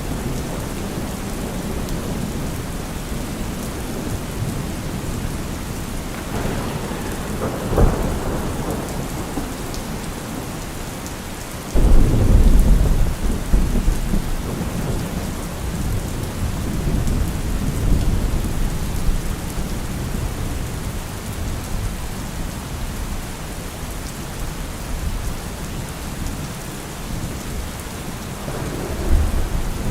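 Steady heavy rain with thunder. There is a sharp crack about eight seconds in, then a loud low rumble breaks out suddenly about twelve seconds in and rolls away over several seconds. Another rumble builds near the end.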